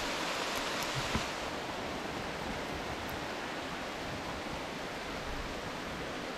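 Heavy rain falling steadily on a pond and surrounding foliage, an even hiss. A couple of soft knocks about a second in.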